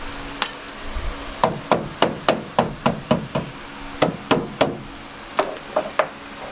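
Hammer striking sheet steel about fifteen times in uneven runs, several in a quick series of about three blows a second, each with a short metallic ring: tapping a rust-repair patch panel on a car door post into shape.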